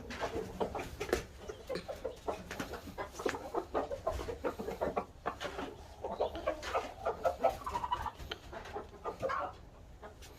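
Chickens clucking, many short overlapping calls in an irregular stream.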